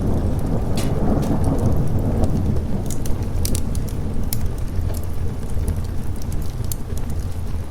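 Steady rain with a continuous low rumble of thunder, and scattered sharp crackles of a fireplace fire.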